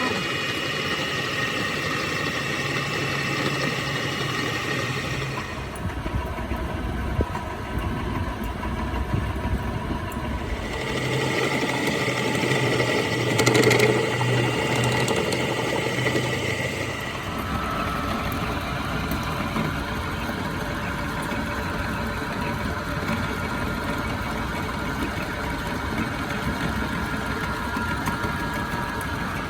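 Workshop machinery running steadily with a low hum. Its sound changes abruptly about five, ten and seventeen seconds in.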